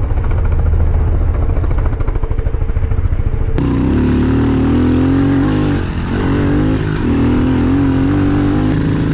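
Pit bike engine running under throttle as it is ridden, the pitch dipping and rising again with the throttle. About three and a half seconds in the sound changes abruptly and becomes brighter and clearer.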